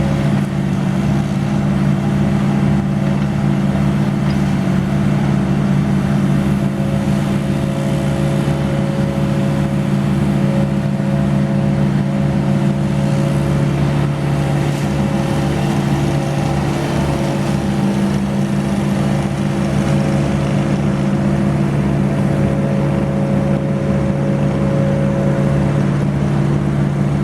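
Engine of heavy tree-removal equipment running steadily at a constant speed, with a fast even low pulse under a steady hum.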